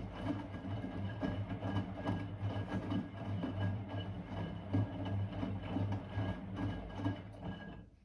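Blomberg WA391 washing machine running mid-cycle: a steady low hum with irregular clicks and sloshing. It stops abruptly near the end.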